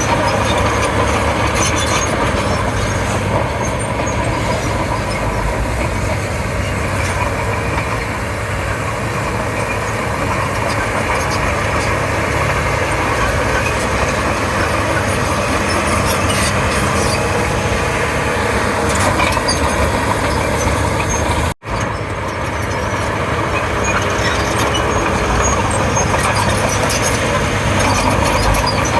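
Komatsu D31P crawler bulldozer's diesel engine running steadily under load while it works. The sound drops out for an instant about two-thirds of the way through.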